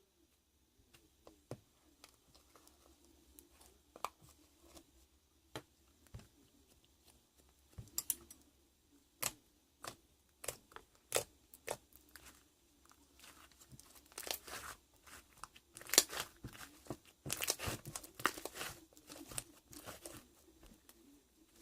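Slime being pressed, stretched and folded by hand, giving irregular sticky clicks and crackling pops, sparse at first and coming thick and fast in the second half.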